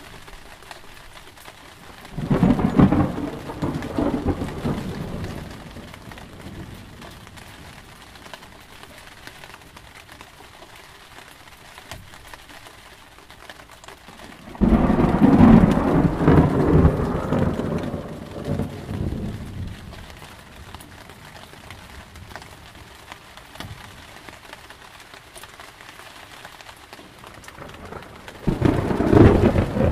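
Steady rain with thunder: three rolls of thunder break in suddenly, about two seconds in, near the middle, and just before the end. The middle roll is the loudest and longest, rumbling for about five seconds before it fades back into the rain.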